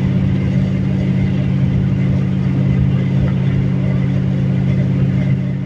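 Ford Torino's engine running steadily at cruise with an even, unchanging drone.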